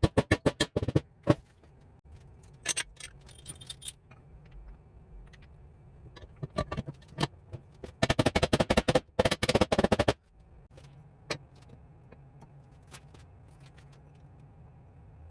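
Metal clinking and clicking of workshop hand tools and parts: a fast even run of clicks at the very start, scattered single clinks, and a second dense run of clicks from about eight to ten seconds in.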